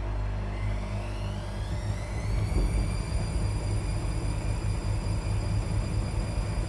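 Washing machine drum speeding up into a spin: a motor whine rises in pitch over a steady low rumble, then levels off into a steady whine about two and a half seconds in.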